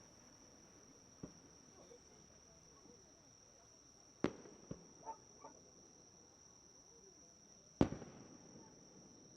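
Fireworks shells bursting: two sharp bangs, about four and eight seconds in, each with an echoing tail, with a few fainter pops between them. A steady high-pitched insect trill runs underneath.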